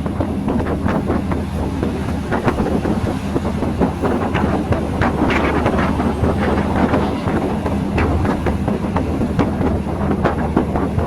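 Passenger train running, heard from on board: a steady low drone with constant rattling and clicking from the wheels and carriage.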